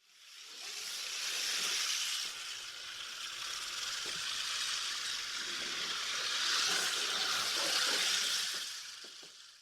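Crested porcupine rattling its hollow tail quills: a dry, hissing rattle that fades in, swells twice and fades out.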